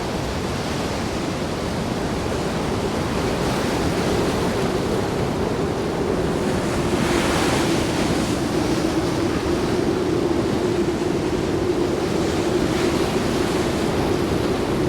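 Stormy sea: heavy surf breaking and churning, with strong wind buffeting the microphone. A louder surge comes about seven seconds in. A steady droning tone builds from a few seconds in and holds to the end.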